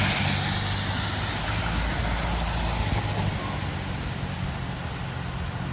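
Emergency vehicles' diesel engines and tyre noise as the apparatus drives past, with a steady low engine hum. The noise is loudest at the start and fades as the vehicles pull away.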